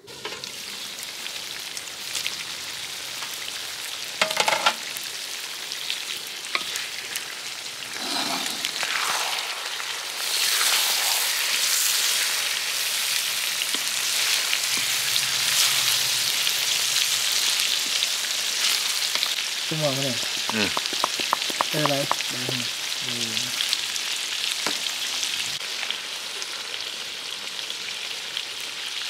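Food frying and sizzling in a pan, with a steady hiss that grows louder about ten seconds in. A sharp clatter comes about four seconds in, and a few short pitched sounds come around twenty seconds in.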